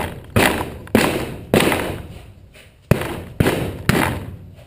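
Repeated heavy thuds, about two a second in two runs of three with a short pause between, as the dirt bike tire is struck and forced down to work its bead onto the rim.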